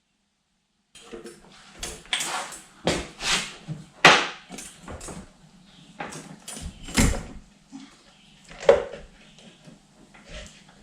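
Irregular knocks, clanks and scrapes of hand-tool work on boat parts, starting about a second in, over a faint steady hum.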